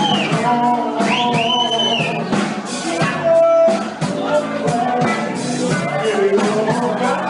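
Soul band playing live: drum kit keeping a steady beat under guitar and bass, with a high note that rises and is held a little after a second in.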